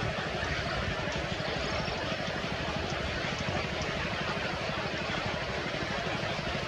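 An engine running steadily, with a fast, even low pulsing and a hiss of noise above it.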